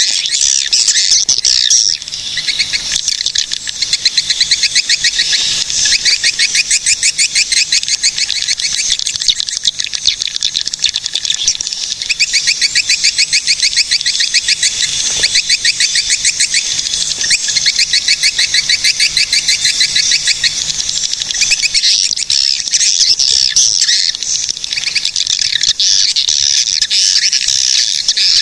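Swiftlets twittering: a fast, continuous, high-pitched chatter of rapid chirps strung together, with only brief breaks. This is the swiftlet call sound used to lure swiftlets.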